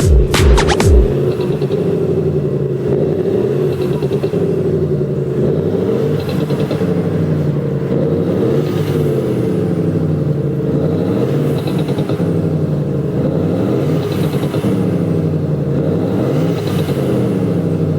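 Jaguar XE 20D diesel's exhaust note, boosted by an active sound booster, revved about seven times: each rev rises and falls in pitch over a couple of seconds, with faint crackles near the top of some revs. Electronic music cuts off about a second in.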